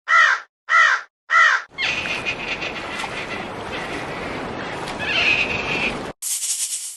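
A bird gives three short, harsh calls in quick succession, then a rough, steady noise runs for about four seconds and a brief high hiss follows near the end.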